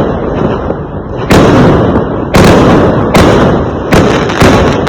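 Fireworks exploding: five loud bangs, irregularly spaced about a second apart or less, each trailing off in echo.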